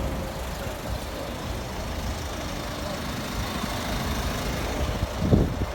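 Steady rumble of vehicle engines and passing traffic, with a brief louder low sound about five seconds in.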